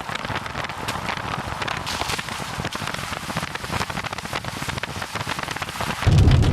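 Rain falling steadily, a dense patter of many small drop impacts. About six seconds in, a louder low rumble joins it.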